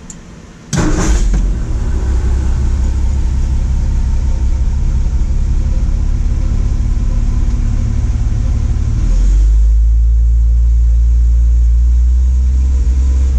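A warm carburetted car engine starting a little under a second in and then running steadily; about nine seconds in it settles into a deeper, steadier run. Freshly re-timed, it runs without the knock the owner was listening for.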